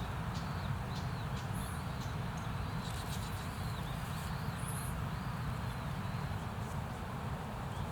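Small birds chirping: short, high, repeated calls over a steady outdoor rumble and hiss, with a few faint clicks.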